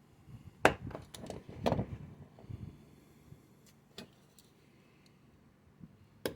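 Plastic pieces being cut for a model: a handful of sharp clicks and snaps. The loudest comes under a second in, with a few more close after it, one at about four seconds and one near the end.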